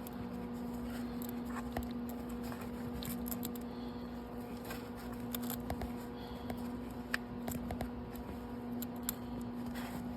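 Scattered light metallic clicks and ticks of a wrench working a welded-on nut to back a broken exhaust manifold bolt out, over a steady low hum.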